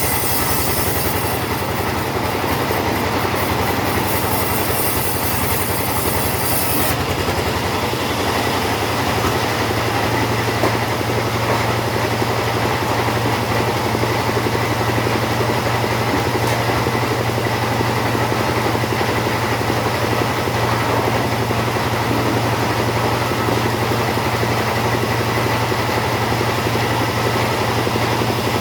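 Two-stroke chainsaw running steadily under load as it saws through teak. Its sound changes about seven seconds in, when the high hiss drops away and a low hum comes up.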